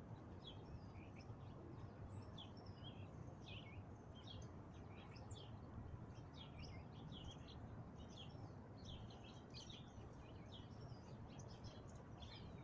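Faint outdoor birdsong: many small quick chirps and twitters that keep going, over a low steady background rumble.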